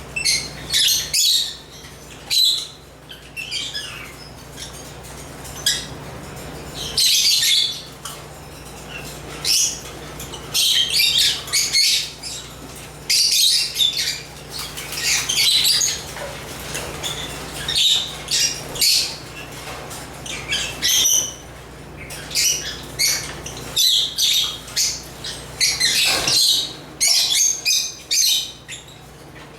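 African lovebirds (Agapornis) chirping and squawking in short, shrill calls that come in quick clusters throughout, over a faint steady low hum.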